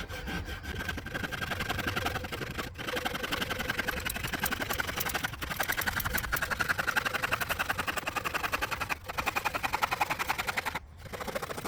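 Hand saw cutting through OSB board in steady back-and-forth strokes. It breaks briefly twice and stops shortly before the end.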